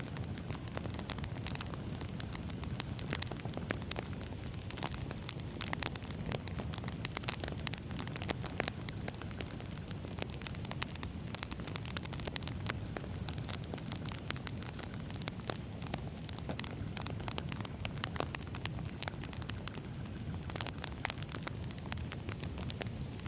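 Firewood burning: many small irregular crackles and pops over a steady low rumble.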